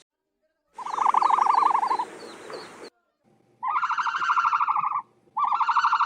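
Three buzzy, rapidly pulsed bird calls, each lasting a little over a second: one about a second in, then two close together in the second half.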